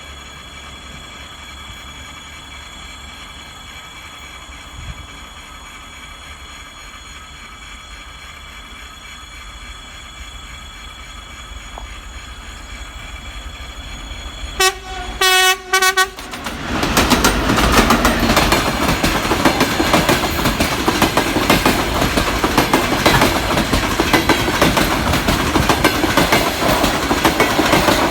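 A TEP70 diesel locomotive with a passenger train draws closer, its sound growing louder. About halfway through it gives three short horn blasts, a greeting from the crew. Then the locomotive and coaches pass close by with a loud rumble and the clickety-clack of wheels over rail joints.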